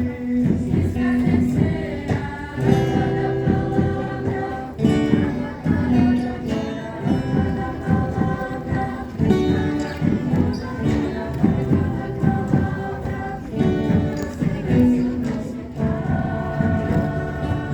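A group of voices singing a song together, holding steady notes that change every second or so.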